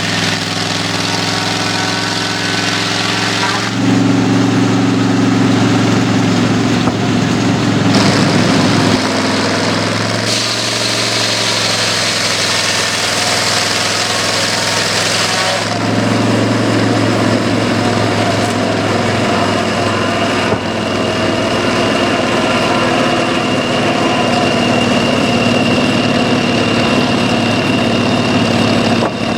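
Homemade scrap-iron sawmill running steadily under engine power. Its sound shifts in pitch and strength about four seconds in, again around nine to ten seconds, and once more at about sixteen seconds.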